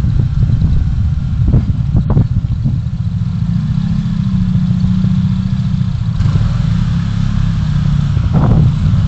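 Vehicle driving noise picked up by a dashcam: a loud low road-and-engine rumble with wind buffeting the microphone. A few short knocks come through, and a steady engine hum rises out of the rumble for a couple of seconds in the middle.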